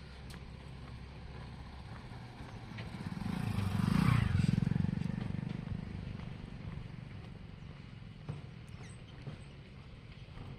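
A motorcycle passes close by, its engine growing louder to a peak about four seconds in and then fading away.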